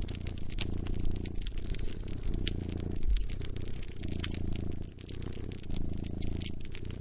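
A cat purring in a low, continuous rumble that swells and dips about once a second with its breathing, while a fire crackles and pops irregularly over it.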